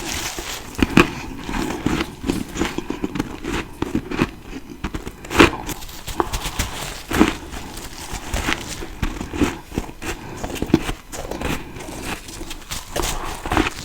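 Close-miked ice eating: a series of crisp, cracking bites into ice, each followed by crunchy chewing.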